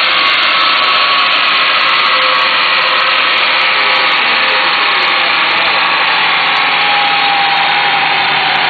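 Corvette V8 running hard on a chassis dynamometer, a loud, steady, distorted roar of engine, exhaust and spinning rollers, its pitch slowly falling over the last few seconds as the revs come down.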